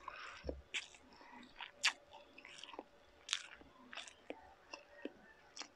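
A person chewing a mouthful of food: irregular mouth smacks and clicks, a few each second, with one sharper click about two seconds in.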